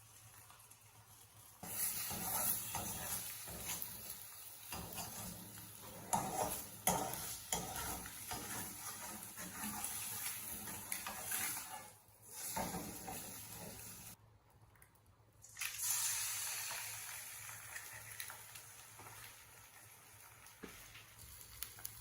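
Food sizzling in a frying pan while a utensil stirs it, with scattered clinks. The sizzle breaks off twice briefly and fades near the end.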